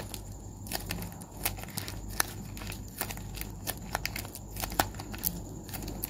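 Tape-covered paper squishy being squeezed and rubbed between the fingers: irregular crinkling and crackling with sharp clicks scattered throughout.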